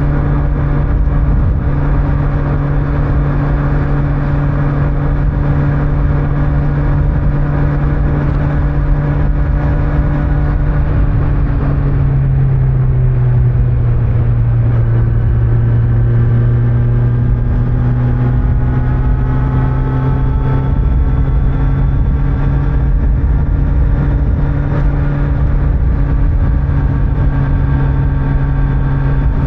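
A 2025 Kawasaki Z900's inline-four engine with its stock exhaust, running at steady revs over wind and road noise. About twelve seconds in the revs drop, then climb slowly again through the second half as the bike gathers speed.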